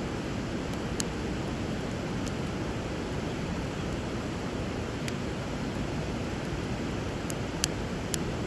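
Steady rush of flowing river water, with about six sharp crackles and pops from a burning wood bonfire scattered through it. The loudest pop comes near the end.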